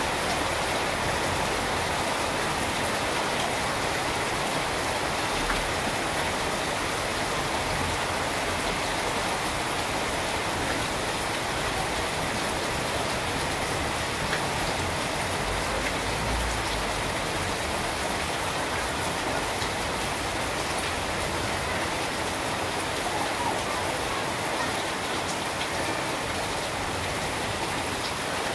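Steady rain falling on trees and garden foliage: an even, unbroken hiss that neither builds nor eases.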